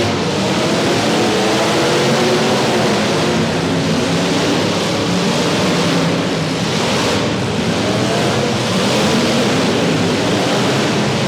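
Several demolition derby car engines running and revving together, their pitches wavering up and down, over a dense steady hiss of noise.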